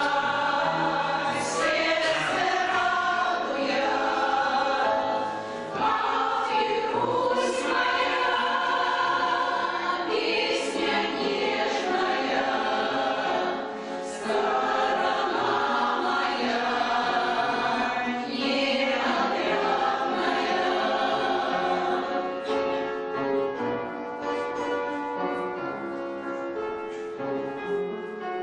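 Amateur choir singing a song with instrumental accompaniment. The voices stop about three quarters of the way through, and the accompaniment plays on alone.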